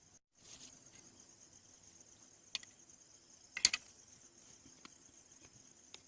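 Steady high-pitched insect chirping in the background, with a few sharp clicks and a louder short clatter of knocks about three and a half seconds in.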